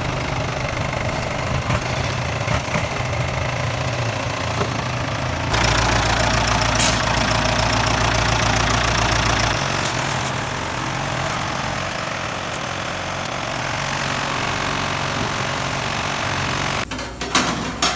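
Farm tractor engine running steadily, getting louder and deeper for about four seconds from about five seconds in, then settling back; a short clatter near the end.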